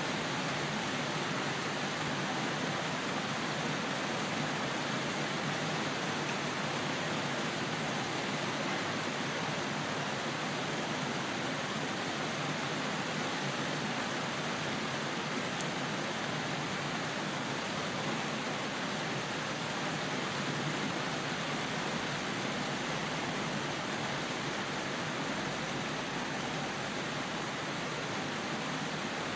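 Steady rain falling, an even unbroken hiss with no thunder or other distinct sounds.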